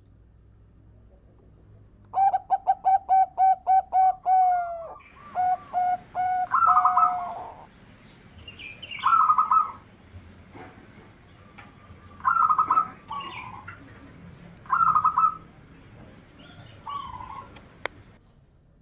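Zebra dove (perkutut) cooing: a quick run of short, evenly spaced notes, then a longer rolling coo, followed by several shorter coo phrases a few seconds apart. A single sharp click comes near the end.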